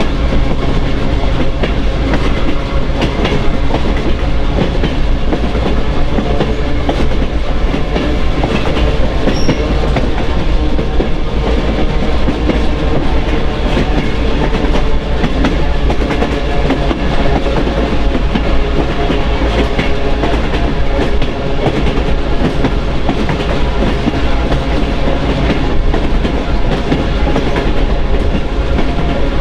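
A train rolling steadily along the track: continuous wheel-on-rail noise with a clickety-clack of wheels over rail joints.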